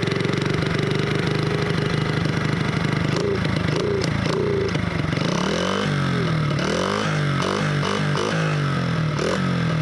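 Small dirt bike engine running, its pitch rising and falling several times from about halfway through.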